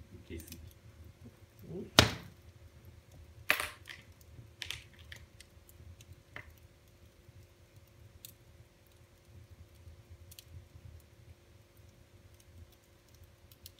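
Wood fire in a fireplace crackling over a low steady rumble, with a few sharp pops, the loudest about two seconds in and another soon after, then fainter, sparser crackles.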